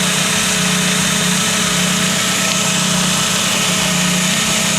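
Volkswagen Gol G2's four-cylinder engine idling steadily with a light 'tec-tec' ticking. The ticking sounds like piston knock, but the owner traced it to a failing water pump.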